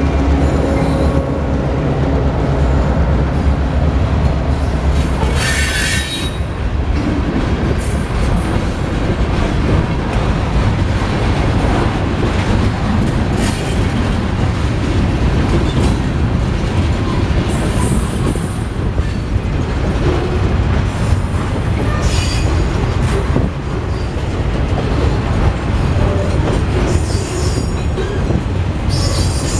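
Mixed freight train cars (tank cars, boxcars and covered hoppers) rolling past close by: a steady rumble of steel wheels on the rails, broken several times by brief high-pitched wheel squeals. The trailing diesel locomotive's engine is heard for about the first second as it passes.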